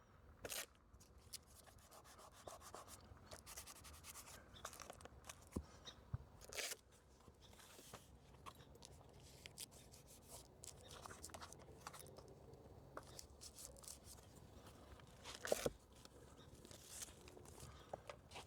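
Faint rubbing and handling noises with scattered small taps and clicks, and a louder rustle about fifteen seconds in.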